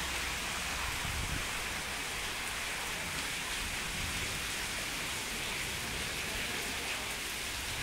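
Steady rain falling on a wet paved pier, an even hiss with a low rumble beneath it.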